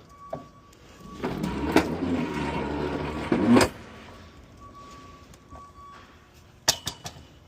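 Box truck running, with a loud surge of engine and cab noise for about two and a half seconds and sharp clicks within it. A few quieter ticks follow, and there is a quick pair of clicks near the end.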